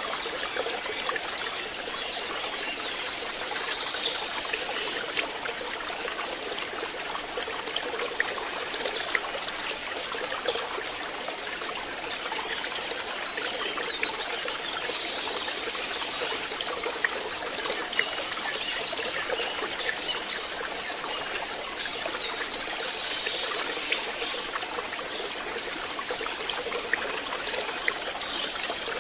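Water trickling and splashing steadily in a fishpond, with a brief high twittering about 3 s in and again near 20 s.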